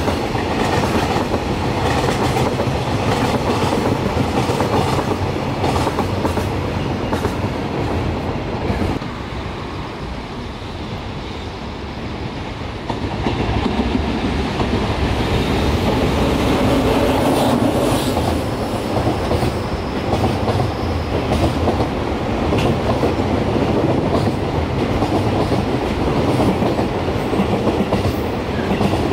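Container freight train wagons rolling past, wheels clattering over rail joints. The sound eases about nine seconds in, then builds again from about thirteen seconds as a JR Freight EF210 electric locomotive and its container wagons come through, with the clickety-clack steady to the end.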